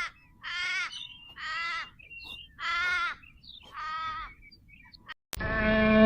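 A bird gives five harsh calls, each about half a second long and about a second apart. Near the end a much louder, low animal call starts abruptly.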